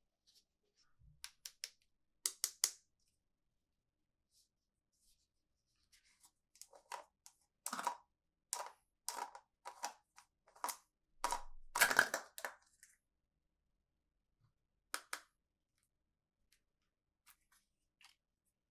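Toy packaging being opened by hand: a series of short, scratchy tearing and crinkling strokes, bunched in a run of about eight in the middle, with a few light clicks near the end.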